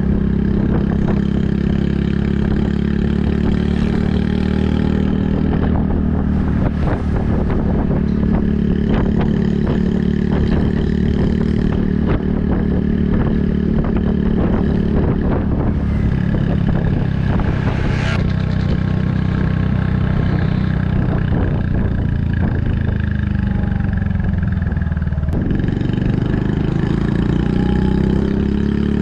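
Air-cooled single-cylinder engine of a Honda Super Cub 110 (JA44) running under way through a Kitaco mini Cabton aftermarket muffler, a steady exhaust note with a few changes in pitch as the throttle and gears change.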